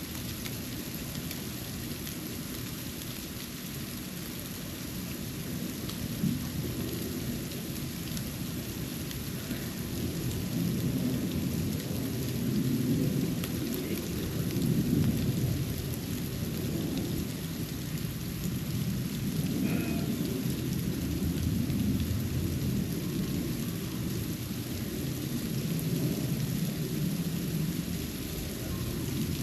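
Outdoor ambience during snowfall, picked up by a GoPro's microphone: a low rumble that swells and fades over a steady hiss, with one small click about six seconds in.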